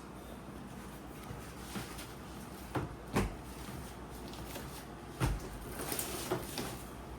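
Scattered knocks and clicks of hard parts being handled, two sharp ones about three seconds in and a louder thump a little after five seconds, over a faint steady hiss.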